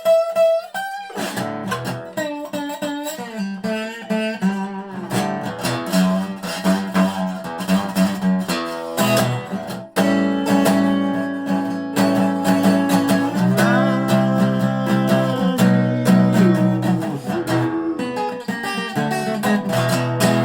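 1985 Dobro spider-cone resonator guitar played with a slide in regular tuning: ringing plucked notes and chords, with wavering vibrato and notes sliding up into pitch.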